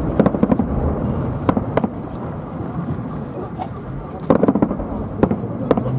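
Fireworks salute bursting in the sky: a quick cluster of sharp bangs and crackles at the start, two single bangs around a second and a half, and another cluster just past four seconds, with two more bangs near the end.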